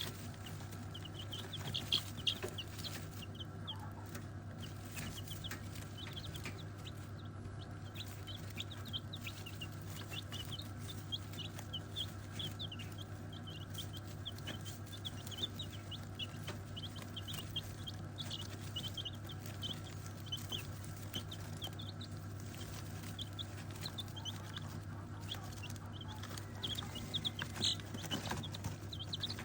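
Chickens clucking and chirping as they feed, with many short high calls throughout and occasional light knocks, over a steady low hum.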